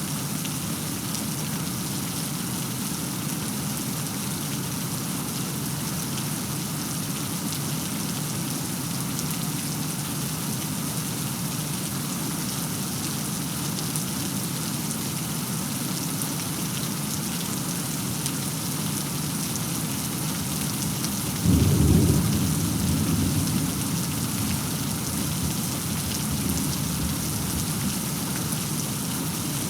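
Steady heavy rain falling, with a sudden clap of thunder about two-thirds of the way through that rolls off into a rumble over a few seconds.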